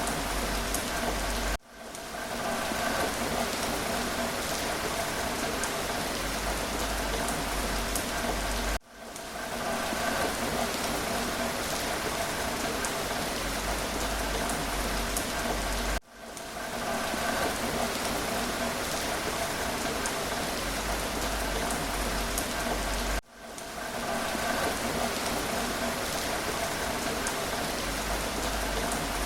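Steady rain falling, an even hiss of many drops. About every seven seconds the sound cuts out for an instant and swells back in.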